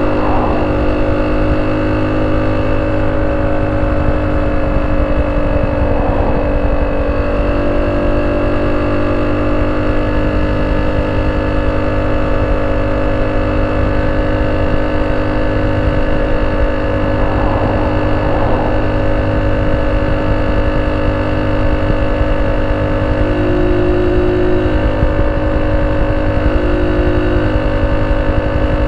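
Honda C70 motorcycle's single-cylinder four-stroke engine running steadily through a banana-type ('pisang') exhaust, a constant even note with no revving.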